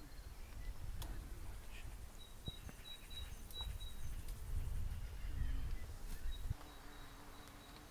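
Outdoor ambience: a low rumble with short, high chirps repeating at one pitch and a few sharp clicks. The rumble drops away about two-thirds of the way through, and a low steady hum takes over.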